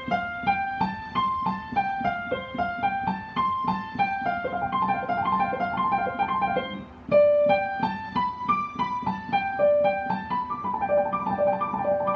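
Piano playing a 'flowing water' accompaniment: a rapid run of repeated sixteenth-note figures rocking back and forth like a pendulum, taken a little slower. The notes briefly thin out about seven seconds in, then the pattern picks up again on a new chord.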